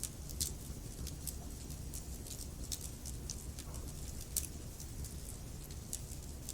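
Wood fire in a fireplace, logs crackling and popping with irregular sharp snaps over a steady low rumble of the flames.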